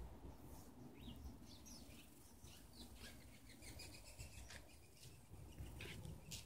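Faint chirping of small birds, a quick string of short high twitters, over a low background rumble, with a couple of soft clicks near the end.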